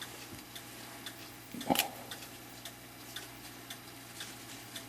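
A clock ticking steadily, about two ticks a second, with a single louder tap a little under two seconds in from work at the bench.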